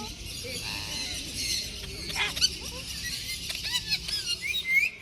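Many aviary birds, mostly parrots and other cage birds, calling together: a dense chatter of short high chirps and squeaks, growing busier and louder in the second half.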